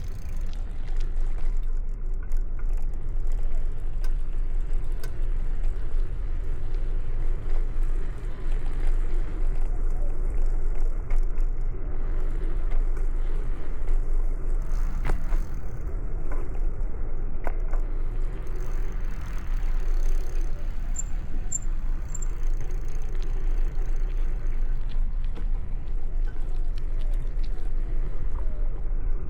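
Steady low rumble of wind and road noise from a camera riding on a moving bicycle, with traffic in the street and a few light clicks and rattles from the bike.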